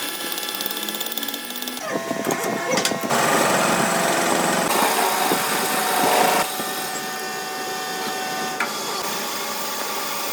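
Workshop machinery running with a steady motor whine, changing character abruptly several times as one short machining clip gives way to the next.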